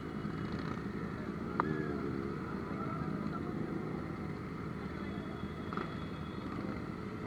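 Motorcycle engine running steadily, with a sharp click about one and a half seconds in.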